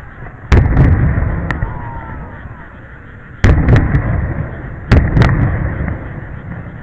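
Aerial fireworks shells bursting: three loud booms, the second about three seconds after the first and the third a second and a half later. Each boom is followed by a few sharp cracks and a fading rumble.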